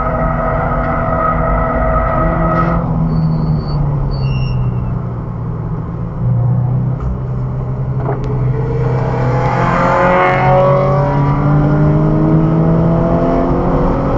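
Car engine heard from inside the cabin while lapping a racetrack. Its note drops about three seconds in as the car slows for a corner. From about halfway it climbs in pitch under acceleration, falls back once and climbs again, as at an upshift.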